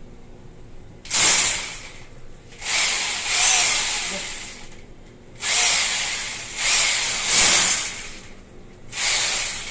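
Power tool, most like a drill, run in five short bursts of one to two seconds each, a hissy grinding with no clear pitch, as it works into the mounting surface for the exhaust fan.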